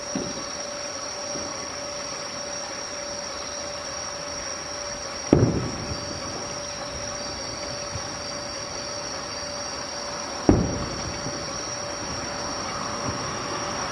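Train running, heard from on board: a steady hum with two fixed tones, broken by two sharp thumps about five seconds apart.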